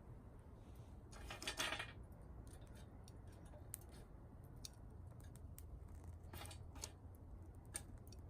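Small twigs crackling and snapping in sharp dry clicks, with a dense cluster about a second in and another about six seconds in, over a steady low rumble.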